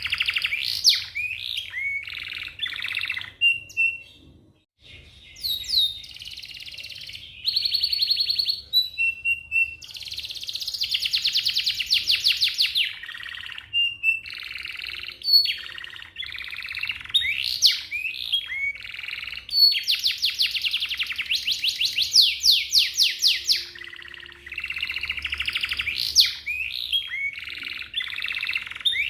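Domestic canary singing a long, high-pitched song of rapid rolls and trills: fast runs of repeated notes, changing from one phrase to the next, with a short break about four seconds in.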